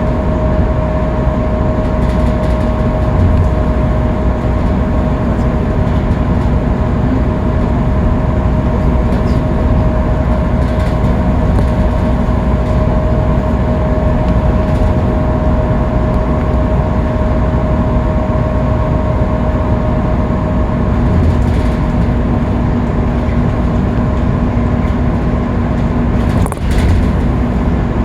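Scania K310UB bus running at freeway speed: a steady rumble of engine and road noise with a constant whine running through it. A brief knock near the end.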